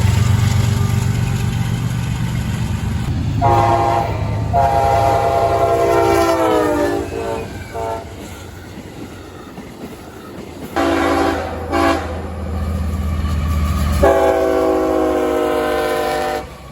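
Diesel locomotive air horn sounding a run of blasts: a short one, a long one that drops in pitch as the locomotive passes, two short ones, then another long one, over the low rumble of the passing train.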